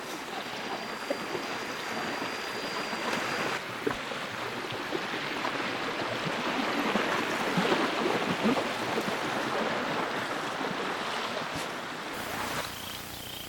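Running stream water, a steady splashing rush that grows louder towards the middle. A thin high whine is heard for the first few seconds.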